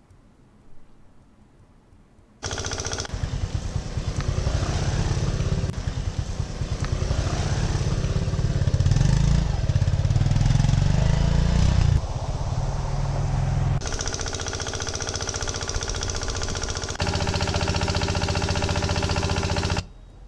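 Motor vehicle engines running, in several segments that change abruptly, about two and a half seconds in and again near 6, 12, 14 and 17 seconds, and stop just before the end.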